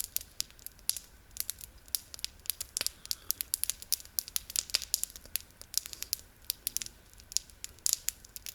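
Wood campfire crackling: a dense, irregular run of sharp snaps, several each second.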